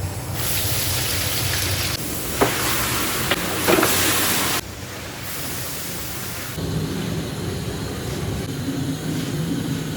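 Hot oil sizzling loudly with a few sharp pops, cut off suddenly about halfway through; then a lower, steady rumble.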